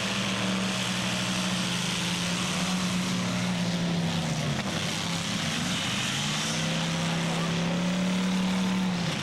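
A big-car demolition derby engine held at high revs, dropping off about four and a half seconds in and climbing back up a second later, over a steady wash of other engine noise.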